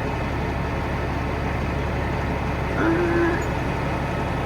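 Diesel engine of a Peterbilt 379 dump truck idling steadily while the dump is running.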